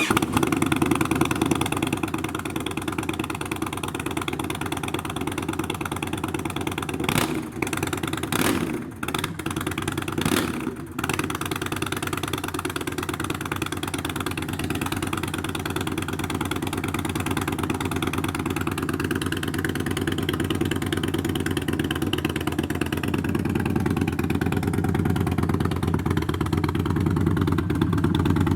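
Indian Chief's air-cooled V-twin idling through a Freedom Performance Combat 2-into-1 full exhaust with the performance baffle, a deep, steady idle just after start-up. The sound changes briefly a few times about a third of the way in.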